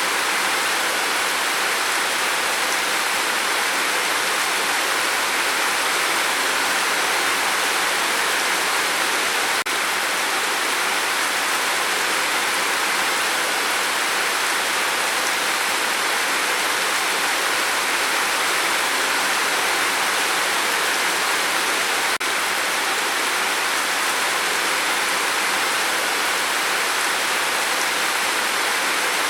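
Steady rain falling, an even hiss without individual drops standing out, broken twice by a faint click.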